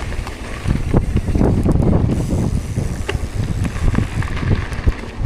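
Wind buffeting the microphone: a heavy, gusting low rumble that swells and eases irregularly, with a few faint clicks.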